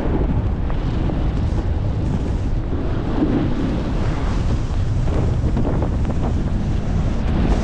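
Heavy wind buffeting the microphone: a loud, steady low rumble from blizzard wind.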